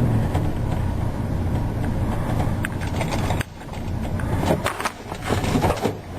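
Ford 460 big-block V8 in a truck running just after a cold start from sitting all winter. About halfway through the sound drops suddenly and then builds back up, and a few sharp clicks or knocks follow near the end.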